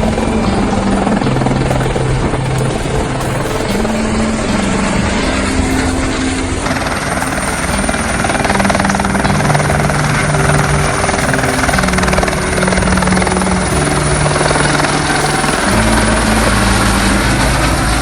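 Airbus EC120 helicopter running, a broad rushing rotor and turbine noise, with a thin high whine joining about a third of the way in. Background music with held bass notes plays over it.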